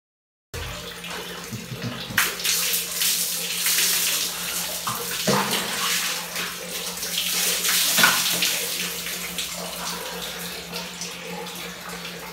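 Water pouring and splashing onto a man's body and a tiled bathroom floor while he bathes, starting suddenly about half a second in and running on, with a few louder splashes.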